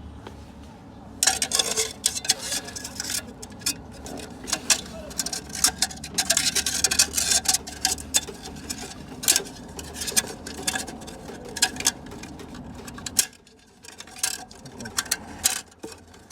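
Metal transmission parts clinking and knocking as they are handled and fitted: many sharp, irregular taps in quick succession. A low steady hum runs underneath and stops about thirteen seconds in.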